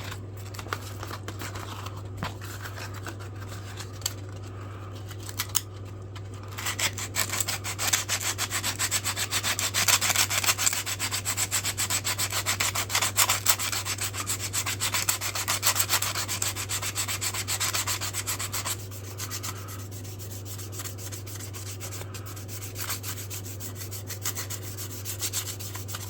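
Sandpaper rubbing rapidly back and forth on wooden knife handle scales, sanding them smooth up to 400 grit. The rubbing is quieter at first, loudest through the middle and softer again near the end, over a steady low hum.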